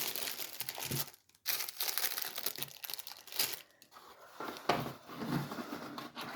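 Packaging crinkling and rustling as it is handled and opened, with the loudest handling in the first four seconds and lighter rustling after that.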